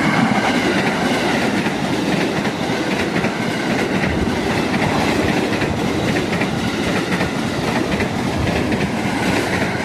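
KRL electric commuter train passing close by, its wheels clacking steadily over the rail joints.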